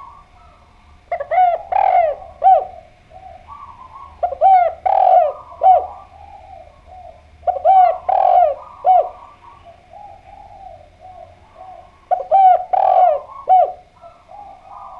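Spotted dove (derkuku) calling loudly. There are four phrases of a few short coos each, one every three to five seconds, with softer cooing between them.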